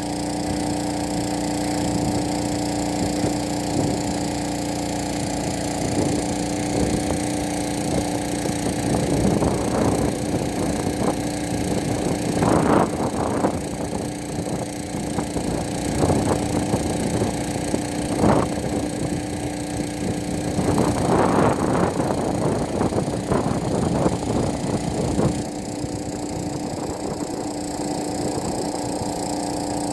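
A steady machine hum holding one constant pitch, broken by several short bursts of crackling and rustling, the strongest around a third of the way in and again about two-thirds through.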